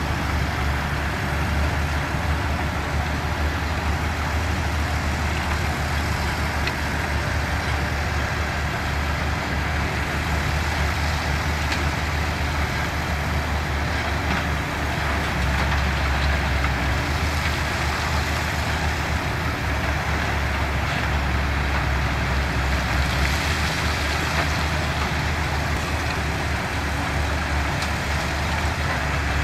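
Diesel engines of heavy construction machinery running steadily with a deep, continuous rumble, swelling a little in the middle.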